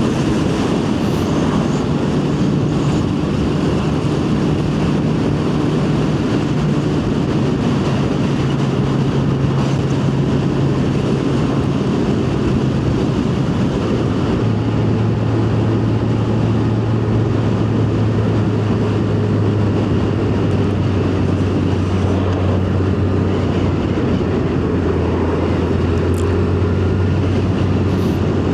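Yamaha FZ1's inline-four engine running steadily while the bike is ridden, with a constant rush of wind and road noise. The engine note drops about halfway through and keeps easing lower as the bike slows.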